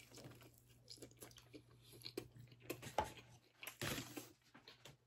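A person biting and chewing crispy fried chicken close to the microphone: faint, irregular crunches and mouth sounds, with a couple of louder crunches about three and four seconds in.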